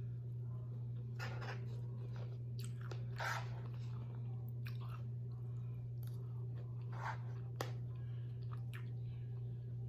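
Close-miked chewing and biting of food, with a few louder crunchy bites scattered through, over a steady low hum.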